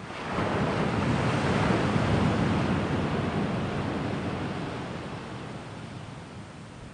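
An ocean wave breaking and washing onto the shore: the rush of surf swells up suddenly just after the start, then slowly fades away over the next few seconds.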